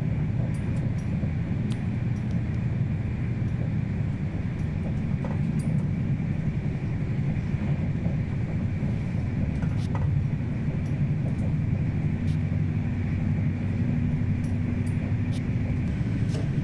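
Passenger train running: a steady low rumble with a faint hum and scattered light clicks.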